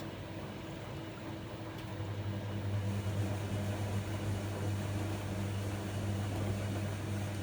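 Miele MedicWash W2585 washing machine running through its hygiene programme. About two seconds in, a steady low hum comes in, typical of a pump or motor switching on.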